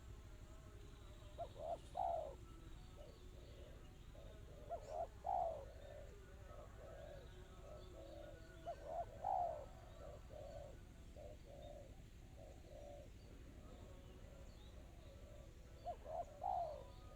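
Spotted dove (tekukur) cooing in four repeated phrases, each two short notes leading into a louder, longer coo. Softer short notes come between the second and third phrases. It is the clear, quick-paced song style that keepers call 'kristal rapat cepat'.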